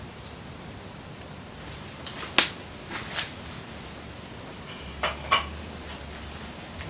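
Wood fire burning with a steady hiss and about six sharp pops and cracks from the burning wood, the loudest about two and a half seconds in and a close pair about five seconds in.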